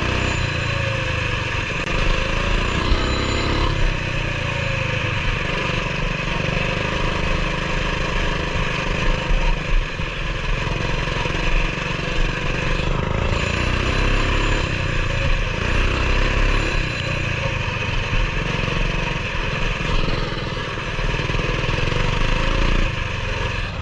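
Coleman BT200X mini bike's single-cylinder engine running as it is ridden, its revs rising and falling a few times.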